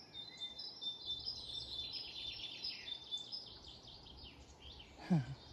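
Great tits singing: a fast run of repeated high, squeaky notes, one bird with the rhythmic, see-sawing song likened to pumping up bicycle tyres. About five seconds in, a short, louder sound slides steeply down in pitch.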